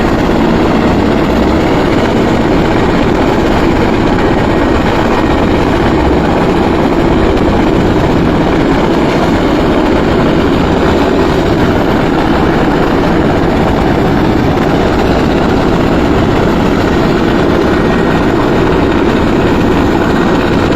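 Helicopter rotor and engine running loud and steady.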